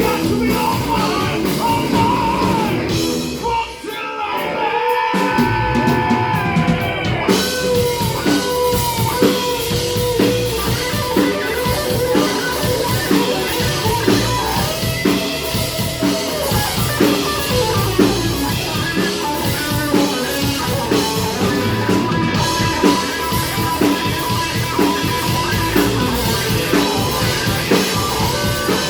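A rock band playing live, with drum kit and electric guitar and some singing. The band drops out briefly about four seconds in, then comes back in full.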